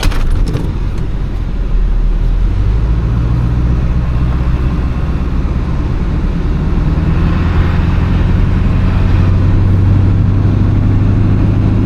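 Motor vehicle engine running with a steady low hum, rising a little about two and a half seconds in and then holding steady.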